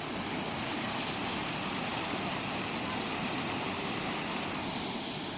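Steady rushing noise that holds even throughout, with no distinct strokes or changes.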